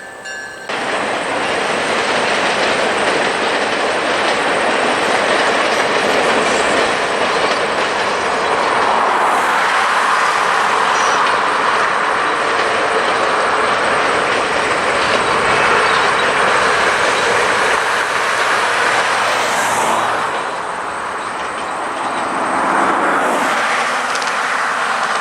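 Passenger train rolling past, its steel wheels running on the rails in a steady loud rumble. The noise eases briefly near the end, then rises again.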